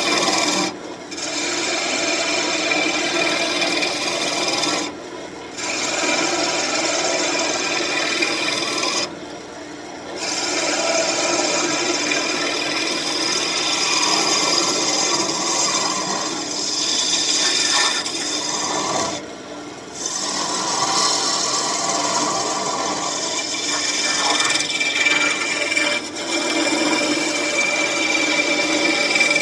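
Gouge cutting a spinning birch blank on a wood lathe: a continuous scraping of the cut, broken four times by brief gaps as the tool comes off the wood. A steady hum from the lathe runs underneath.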